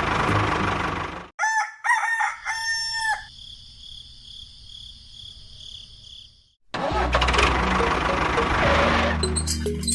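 A rooster crows once, starting just over a second in: a few short gliding notes, then a long held note. Steady motor noise with a low hum runs before the crow and starts again near seven seconds in.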